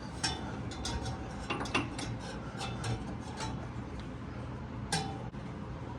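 Irregular metallic clicks and clinks of a wrench and socket working on the crank pulley bolt of a seized engine, a few of them ringing briefly, the loudest about five seconds in.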